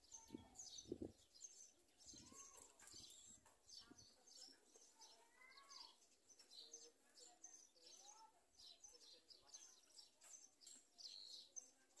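Faint background birdsong: many short, high chirps from small birds scattered throughout, with a few lower curving calls.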